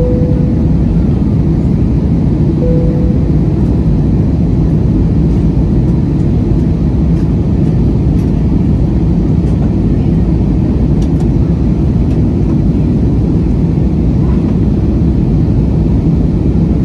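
Steady low roar of an airliner's jet engines and airflow heard inside the passenger cabin, unchanging throughout, with two brief faint tones in the first few seconds.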